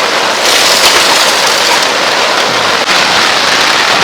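Heavy downpour drumming on the fabric of a small dome tent, a loud, dense, steady hiss of rain.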